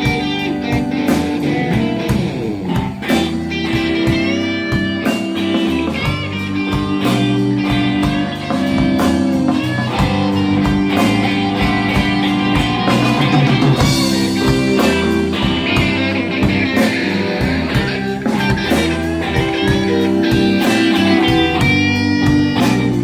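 Live band playing a slow blues, led by an electric guitar playing lead lines with bent notes over bass and drums.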